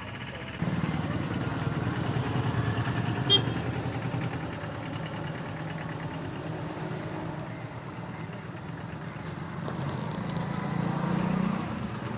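A motor vehicle's engine running steadily, growing louder just after the start and again near the end, with one sharp click about three seconds in.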